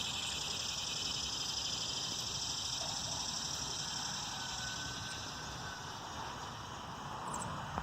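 Steady high-pitched background hiss, with a faint thin whistle from about four and a half to six seconds in.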